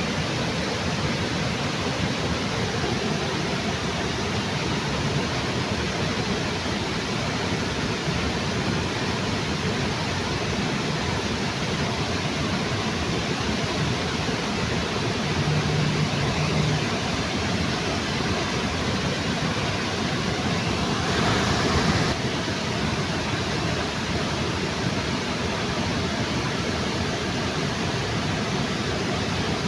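Waterfall rushing steadily, a continuous even roar of falling water, with a short louder swell about three-quarters of the way through.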